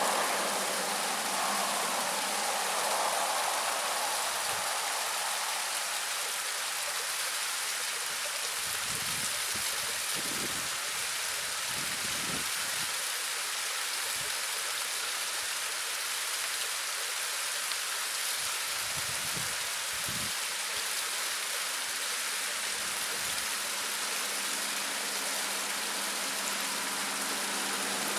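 Small seasonal waterfall splashing: a steady, even hiss of falling water.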